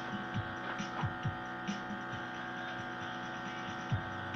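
Music with low, falling bass-drum thumps played through a newly built single-channel Sakura 737 amplifier on sound check, over a steady mains hum.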